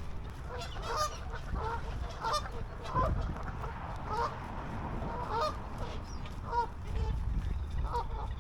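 A flock of geese on the water honking, many short calls overlapping irregularly, over a low steady rumble.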